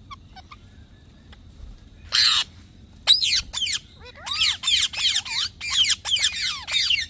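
Indian ringneck parrot squawking: one harsh screech about two seconds in, then a fast run of loud calls that slide up and down in pitch from about three seconds on.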